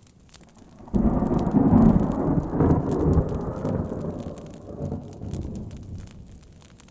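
A thunderclap breaks suddenly about a second in, then rolls and rumbles away over the next five seconds, over faint rain and crackling.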